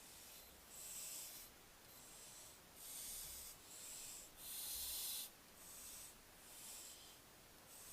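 Barn owlet giving a series of short, rasping hisses, about one a second, with the loudest about five seconds in.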